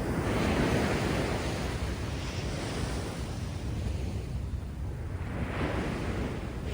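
Heavy storm surf breaking on the beach in the rough sea after a typhoon: a wave crashes at the start, a smaller one about two and a half seconds in, and another about five and a half seconds in, each washing in as a rush of noise. Wind rumbles steadily on the microphone underneath.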